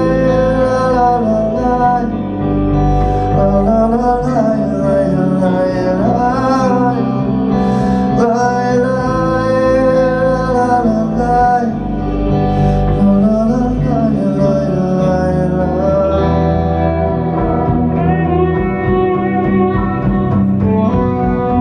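Live acoustic band music: guitar accompaniment under a sliding, sustained melodic lead line in a passage without lyrics. The texture thins out about two-thirds of the way through.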